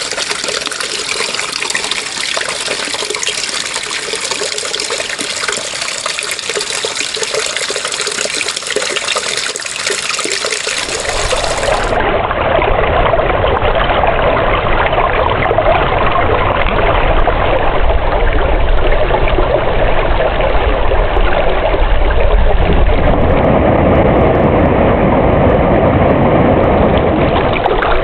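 Running water, a steady rush. About eleven seconds in, it changes abruptly to a deeper, fuller and duller rush with more low rumble.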